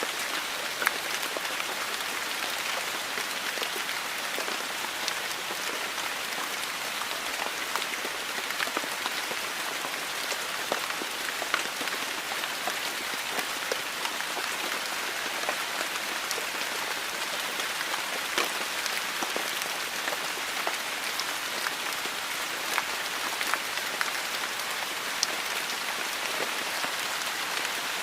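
Heavy monsoon rain falling steadily: an even hiss with many scattered sharp drop hits.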